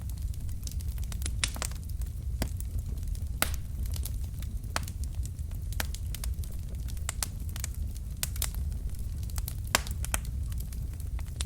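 Wood fire in a fireplace crackling, with frequent irregular sharp pops over a steady low rumble of the burning logs.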